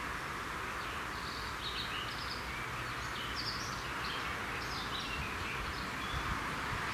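Small birds chirping and twittering on and off over a steady background hiss.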